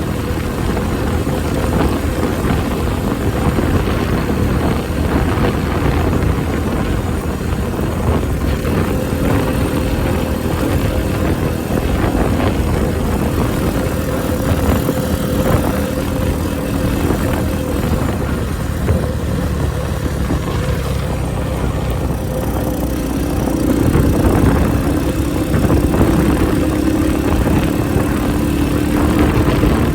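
Honda Benly CS90's small single-cylinder four-stroke engine running under way, with strong wind buffeting the microphone. About two-thirds of the way through, the engine note rises and gets louder.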